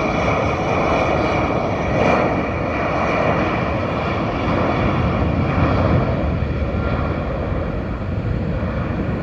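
Airliner's engines running loud and steady, a high whine over a broad rush, easing off slightly near the end.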